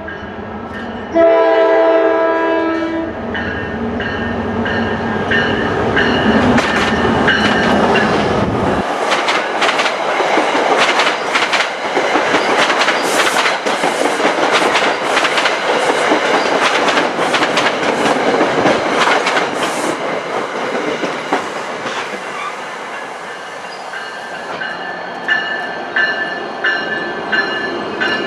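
NJ Transit diesel-hauled passenger train: the locomotive's horn ends one blast just after the start and sounds another for about two seconds, then the locomotive rumbles past and the coaches clatter over the rail joints, with a thin squeal of wheels near the end.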